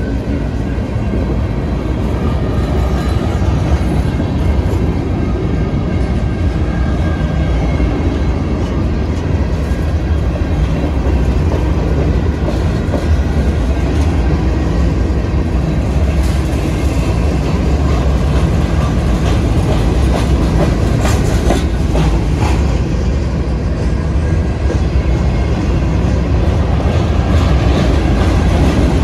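Freight train of covered hopper cars rolling past: a steady, loud rumble of steel wheels on rail with clickety-clack over the joints. A few sharper clacks come about halfway through and again a few seconds later.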